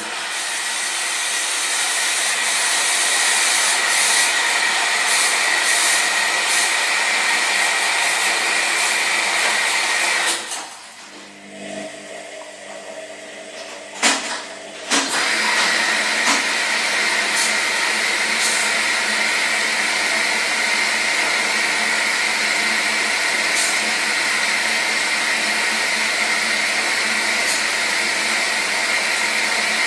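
Washing machine running with a loud, steady rushing noise. About ten seconds in the rushing drops away for a few seconds, leaving a quieter hum, then two sharp clicks come and the rushing starts again.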